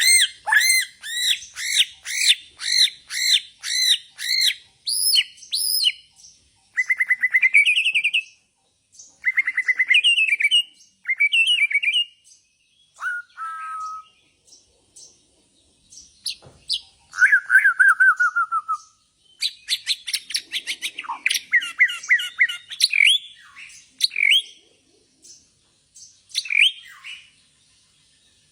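A Borneo shama (murai Borneo) singing a varied song. It opens with a fast series of loud sweeping notes, about three a second, then moves through trills and clear whistles, a falling whistled run, and bursts of rapid chattering notes.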